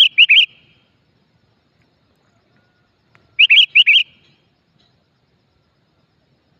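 Decoy songbird calling: a short, quick run of about four high chirps, repeated once about three and a half seconds later.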